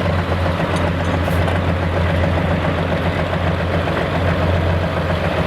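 Pulling tractor's diesel engine idling steadily with a deep, even drone, not revving or under load.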